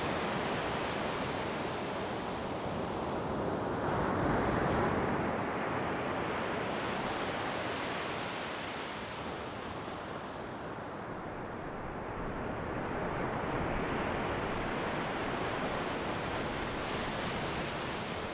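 Ocean waves breaking and washing onto the shore in slow swells, one cresting about four seconds in and another building towards the end.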